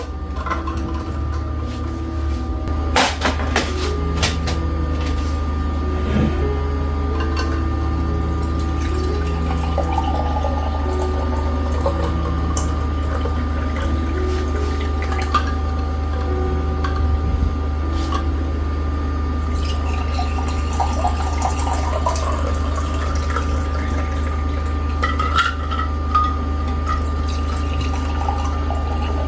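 Water running and splashing, with a few sharp clicks in the first several seconds.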